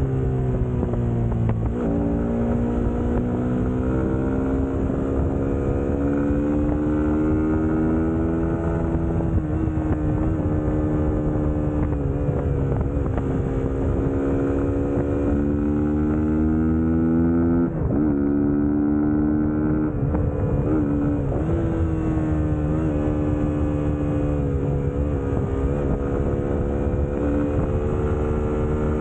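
Suzuki GSX-S150's single-cylinder four-stroke engine running under way. Its pitch sinks at first, then climbs slowly for several seconds, with a couple of abrupt pitch steps around the middle.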